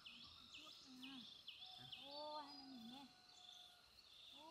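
Faint bird calling in a run of high chirps, about four a second, each falling in pitch; about halfway through the chirping turns quicker and flatter. Low murmured voices sound underneath.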